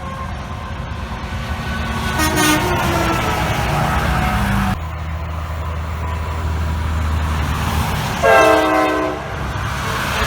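Semi trucks passing on a highway with a steady engine and tyre rumble, one sounding an aftermarket train-style air horn: a short faint blast about two seconds in, then a loud chord of about a second near the end.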